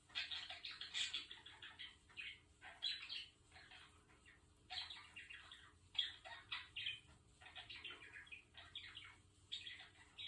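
Budgerigar chattering in a string of short bursts with brief gaps between them.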